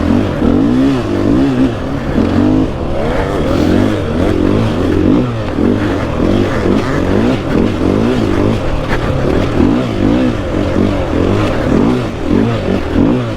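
Dirt bike engine revving, its pitch rising and falling over and over with the throttle.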